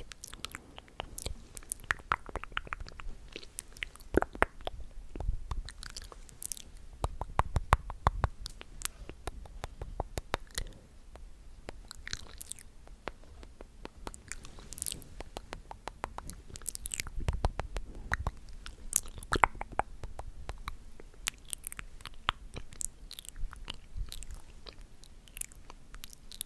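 ASMR mouth sounds close to the microphone: wet clicks and smacks of the lips and tongue, coming in quick runs of many clicks.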